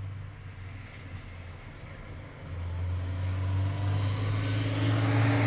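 A motor vehicle's engine running with a steady low note, getting clearly louder about two and a half seconds in.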